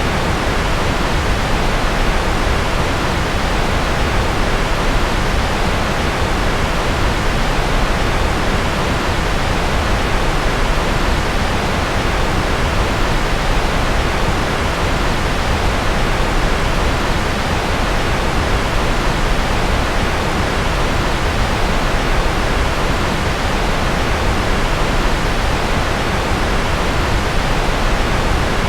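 Steady, unchanging rushing noise for sleep, heavier in the low end, like a distant jet or rocket roar with no rises or breaks.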